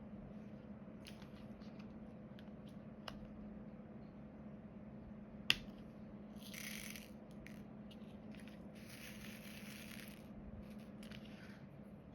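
Diamond painting work: faint light clicks and taps of drills and tools, one sharper click midway, and two short rustling, rattling passages as the drills are handled. A low steady hum lies under it.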